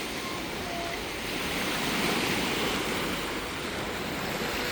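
Lake waves washing against the shore, with wind buffeting the microphone; the wash swells briefly about two seconds in.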